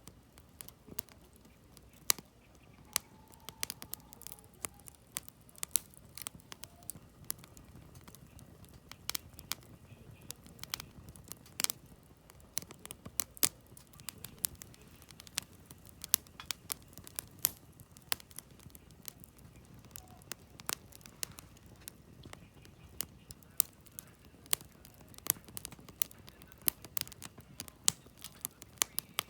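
Firewood burning in a campfire, crackling and popping: sharp, irregular snaps, often several a second, over a soft low rustle of flame.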